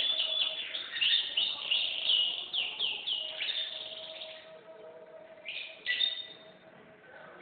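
Domestic canary singing: a dense run of rapid trills and quick downward-sweeping notes, then only a couple of short phrases in the second half as the song trails off.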